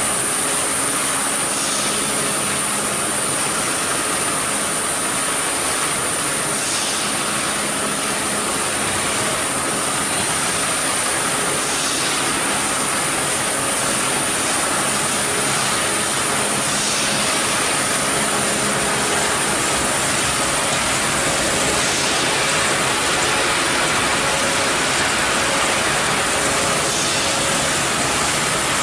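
Steady machinery noise with a continuous high-pitched whine, and faint brief clicks every few seconds.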